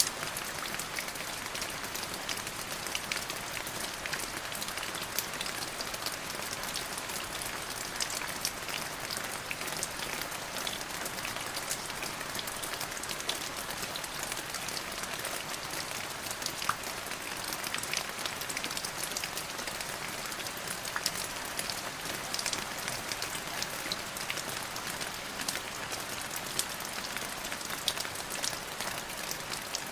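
Steady rain falling on a surface, a dense even hiss full of fine drop ticks.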